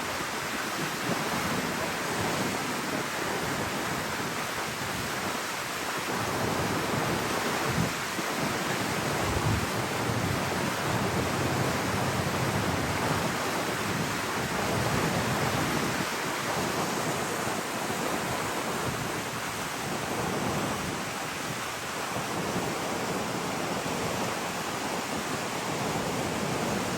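Steady rushing of wind and water, with a few stronger low gusts on the microphone about a third of the way in.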